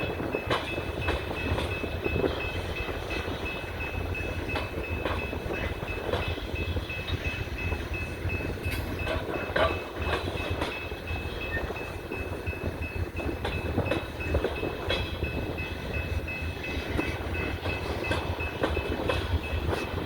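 Coal train cars rolling by with a steady low rumble, wheels clicking irregularly over rail joints and a thin steady high whine.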